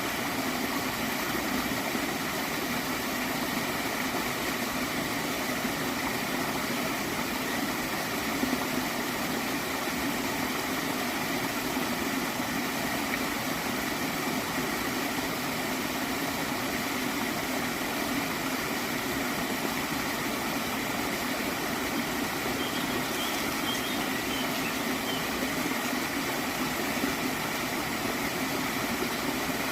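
Small stream of water flowing and gurgling steadily.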